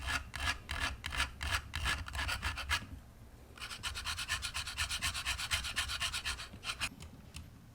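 An eggshell being scraped back and forth in a scratch test, in rapid, evenly repeated rasping strokes. The scraping stops briefly about three seconds in, then resumes faster until near the end.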